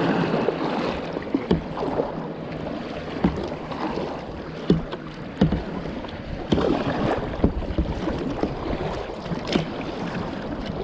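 Kayak paddling on a river: running water and paddle strokes, with irregular sharper splashes every second or two.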